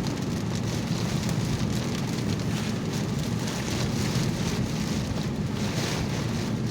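Rain falling on a moving car's roof and windshield, heard from inside the cabin over steady road and engine noise.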